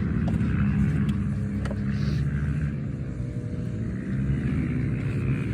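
Dirt bike engine running at a steady, fairly even speed, with small rises and falls in revs.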